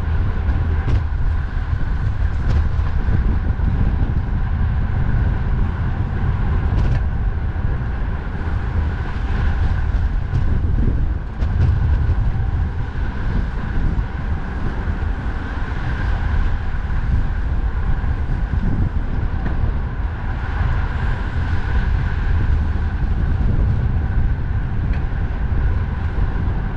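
Steady wind rumble on the microphone of a moving bicycle, over continuous road-traffic noise. The sound stays loud and even, with no single event standing out.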